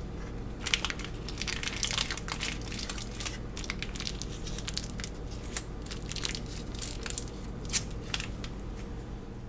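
Crackling and crunching: many quick, sharp crackles over several seconds as something crisp or crinkly is crushed or handled, over a steady low hum.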